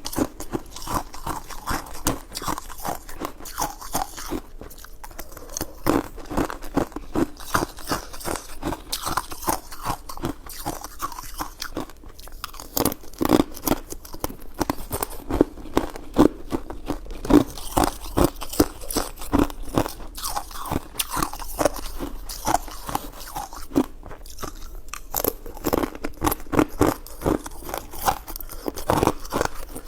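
Close-miked chewing and biting of food: a quick, irregular run of crunching and wet clicking sounds, several a second, going on throughout.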